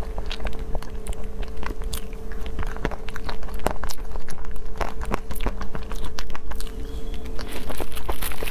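Close-miked chewing of a mouthful of food with nuts in it: many small irregular crunches as the nuts are chewed thoroughly.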